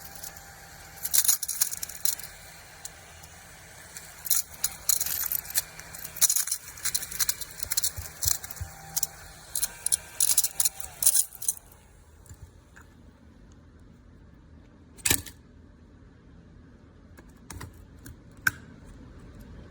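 Mini cordless desktop vacuum running with a low hum while small debris rattles and clicks as it is sucked up, densely for the first half. After that mostly the hum remains, with a few scattered clicks.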